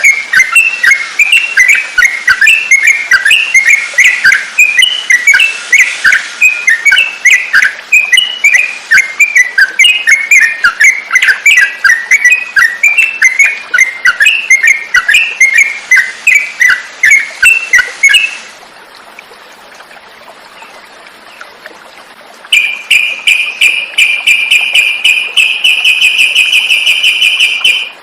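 Yellow-vented bulbul (trucukan) singing: dense, rapid, bubbly chirping phrases. About two-thirds of the way through it breaks off suddenly into a lull. A steady high trill follows for the last few seconds.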